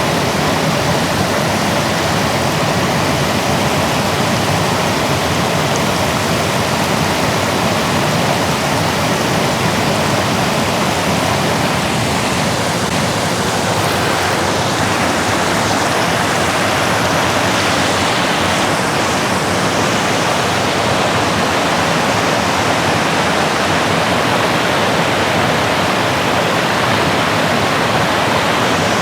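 Rushing river water tumbling over rocks, a steady, unbroken rush.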